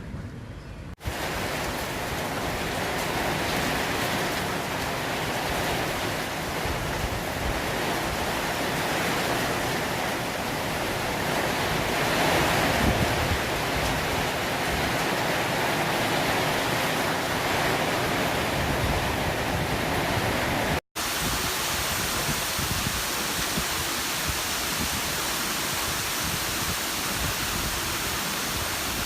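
Heavy rain pouring down with gusting wind in a summer thunderstorm, a dense steady downpour noise. It cuts out briefly twice, about a second in and about two-thirds of the way through, then resumes.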